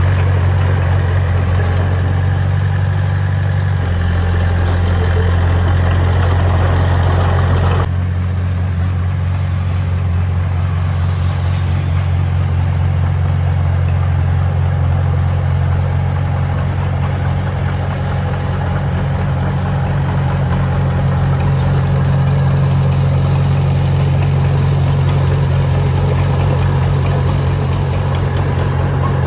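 Diesel engine of heavy earthmoving machinery running steadily with a deep hum. Its tone shifts about four seconds in, and the harsher upper noise drops away about eight seconds in.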